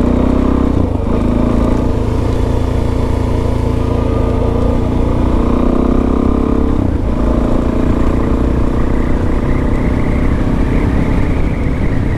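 Suzuki DRZ400S's single-cylinder four-stroke engine running under way at a steady road speed, with wind rushing over the microphone. The engine note dips briefly about a second in and again about seven seconds in.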